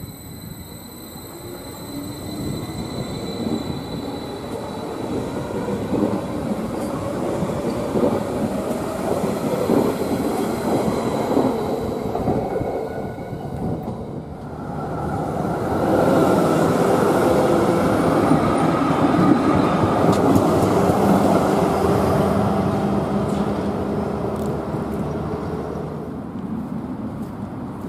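Stadler FLIRT electric multiple unit (Zurich S-Bahn RABe 526) running through a station: steady wheel-on-rail running noise with light clatter, a faint high whine at first. The noise dips about halfway, then a second, louder stretch of train running noise swells and fades.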